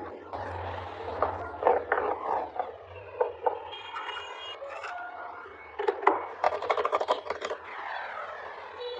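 A hand tool scraping and rubbing on a carved wooden piece in irregular strokes, with sharp clicks and a few short squeaks, over a low steady hum.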